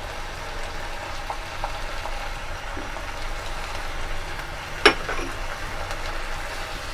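Shredded chicken, carrot and onion sizzling steadily in a nonstick frying pan, with one sharp click about five seconds in.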